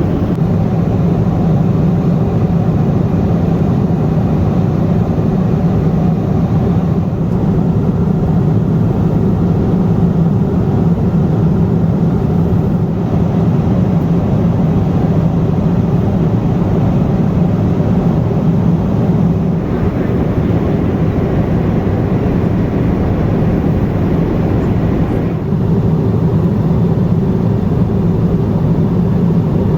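Steady jet airliner cabin noise inside a Boeing 777-200ER in flight: an even, low rushing hum of engines and airflow with no change.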